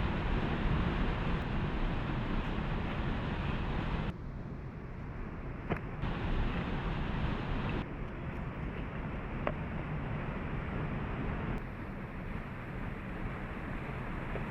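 Waterfall rushing: a steady wash of falling water whose level steps down and up abruptly a few times. Two faint clicks sound over it, about six and nine and a half seconds in.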